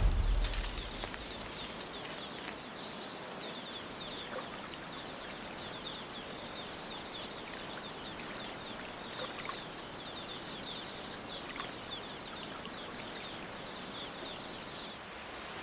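Rainforest ambience: many small insect and bird chirps over a soft steady hiss, with a high-pitched insect drone that starts a few seconds in and stops near the end. A loud low rush fades out in the first moment.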